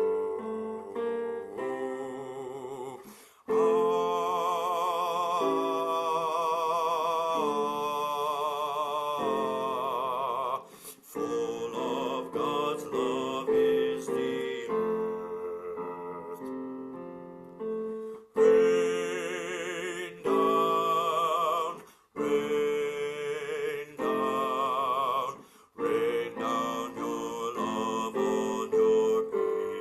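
A singer sings the bass line of a hymn with vibrato, in long phrases over a piano accompaniment.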